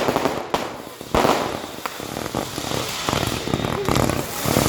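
Fireworks going off: a dense run of crackling bursts, with a sharp bang about a second in.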